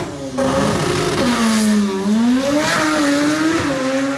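Drag car engine running loud, its pitch sagging and then climbing again about halfway through, with a steady hiss over it.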